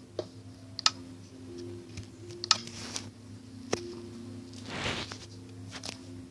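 About six sharp clicks and taps, spaced irregularly, over a steady low hum, with a brief hiss about five seconds in.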